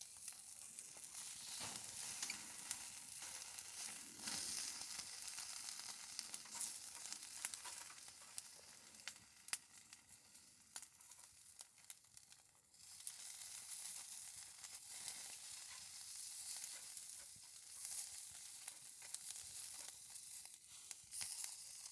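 Food sizzling in a hot pan, a steady hiss with small crackles and pops that starts suddenly as the food goes in and dips briefly about halfway through.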